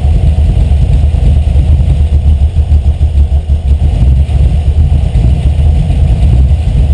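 Carbureted 5.0-litre V8 idling low with a slightly uneven, pulsing beat. The idle is turned almost all the way down and the carburettor still needs tuning.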